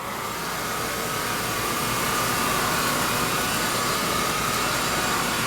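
Oreck AV-701B cordless stick vacuum switching on and running on carpet, its motor and beater brush building up over the first two seconds to a steady whine while it picks up pet hair.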